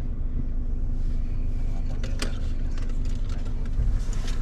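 Steady low road and engine rumble inside a moving car's cabin, with a faint constant hum and two brief clicks, about two seconds in and near the end.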